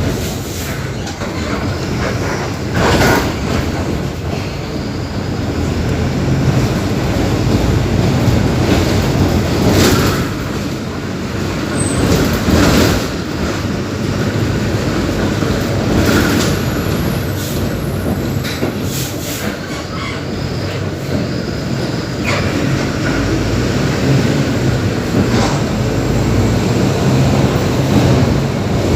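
Mercedes-Benz OF-1721 BlueTec 5 bus's front-mounted diesel engine running steadily under way, a continuous low drone, with several sharp knocks and rattles from the bus scattered through it.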